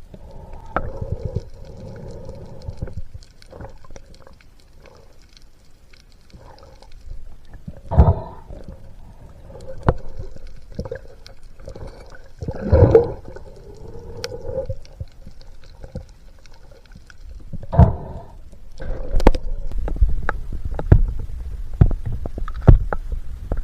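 Muffled underwater sound of the kind a camera housing picks up: gurgling and rumbling, scattered clicks and several louder knocks, with a low hum coming and going twice.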